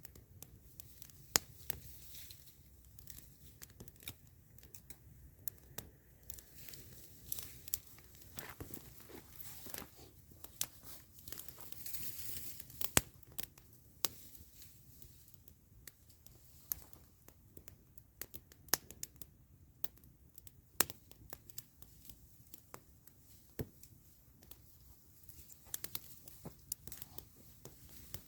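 Wood campfire crackling, with irregular sharp pops and snaps, some louder, and a brief stretch of hissing near the middle.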